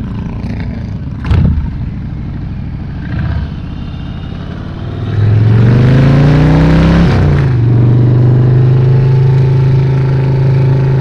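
Motorcycle engine running under way, then accelerating hard about five seconds in, its note rising, dropping at a gearshift and settling into a steady cruise. A single knock comes about a second in.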